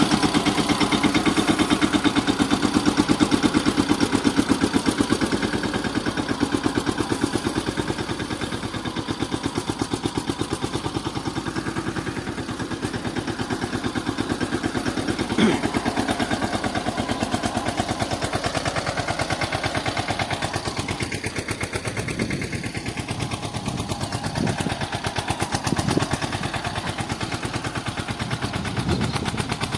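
Tractor engine running steadily with a rapid, even beat. There is a sharp knock about halfway through, and a few thumps near the end.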